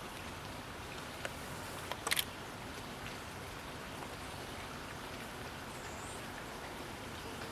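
Steady rain falling, with a few sharp clicks, the loudest about two seconds in.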